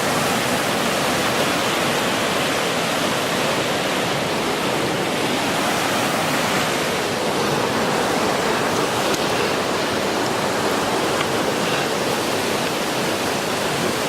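Steady, unbroken rush of water, an even hiss with no distinct events.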